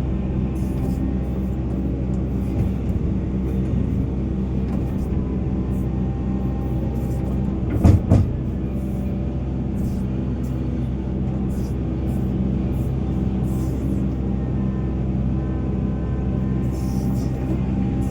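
Volvo EC480 excavator's diesel engine running steadily, with a loud double clunk about eight seconds in.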